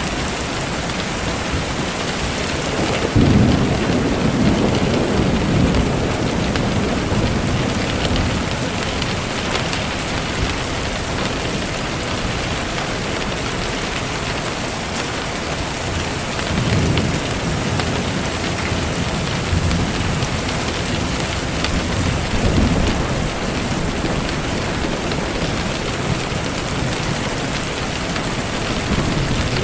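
Steady rain falling, with low rolls of thunder: the strongest swells up about three seconds in, and weaker ones come later on.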